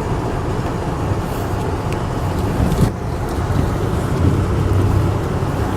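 A car driving, with a steady low rumble of engine and road noise and a couple of faint clicks partway through.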